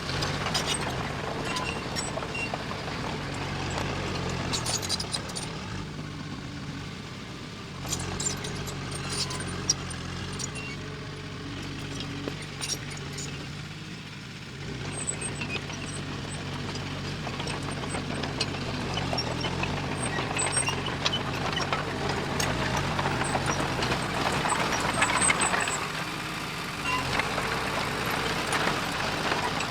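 Diesel engine of heavy earthmoving machinery running steadily, with scattered sharp metallic clanks and knocks. The engine note eases off twice and picks up again, and it grows louder over the second half.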